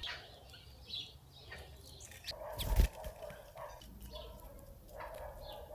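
Birds chirping in short, scattered calls at a feeding box, with a single loud thump about two and a half seconds in.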